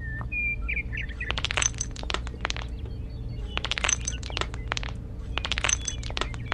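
Small decorative pebbles clicking and clinking against one another as they are set down by hand, in three quick clusters of clicks.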